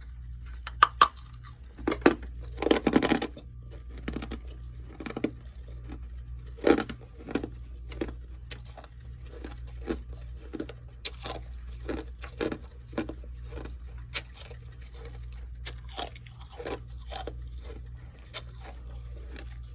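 Person biting and chewing crunchy frost: a string of crisp, irregular crunches, the loudest in the first few seconds.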